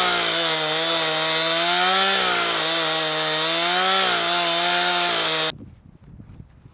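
Chainsaw running under load while freehand ripping a pine log lengthwise into slabs, its pitch dipping and rising as it cuts. It stops suddenly near the end.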